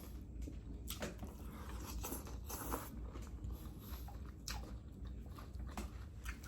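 A person chewing food close to the microphone, with soft mouth clicks and a few short crunches scattered through.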